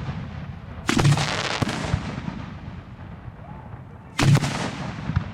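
Fireworks display heard from close to the launch site: a sharp shell burst about a second in and another about four seconds in, each followed by a long crackling tail that fades, with lighter pops in between.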